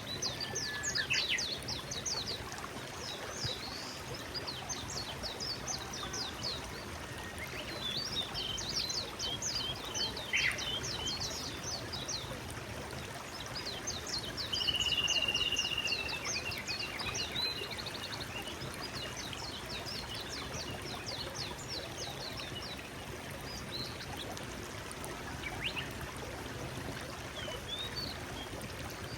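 A small forest stream flowing steadily, with songbirds singing over it in quick series of high chirps and sweeping notes, and one held whistle about halfway through.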